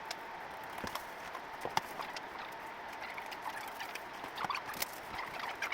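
Scattered light clicks and knocks of small objects being handled and set down, over steady room noise with a faint hum.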